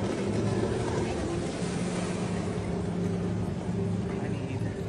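Motorboat engine running with a steady hum.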